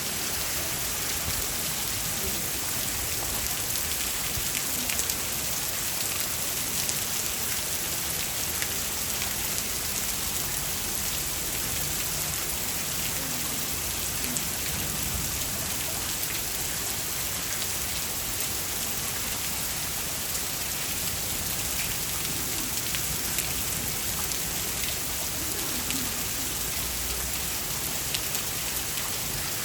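Heavy rain falling steadily: an even hiss dotted with many small drop ticks.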